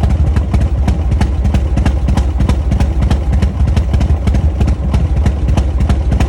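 Harley-Davidson V-twin running at idle on a freshly rebuilt and rejetted S&S Super E carburetor, a steady beat with sharp regular ticks about four a second. The exhaust has loosely fitted baffles.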